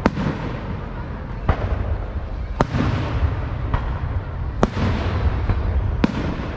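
Aerial fireworks going off: a sharp bang every second or so, several trailing into a fading crackle, over a steady low rumble.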